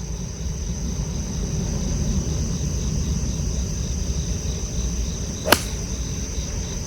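Golf iron striking a ball on a tee shot: a single sharp click about five and a half seconds in. Wind rumbling on the microphone throughout, with insects chirping steadily in the background.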